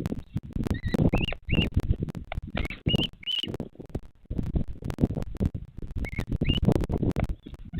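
About eight short, high chirping bird calls in small groups, each rising briefly then levelling. They sit over steady low rumbling and crackling noise.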